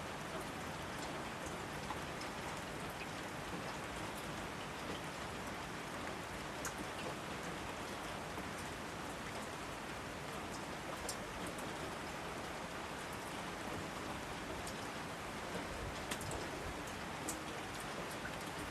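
Steady rain: an even hiss of rainfall with individual drops striking sharply here and there.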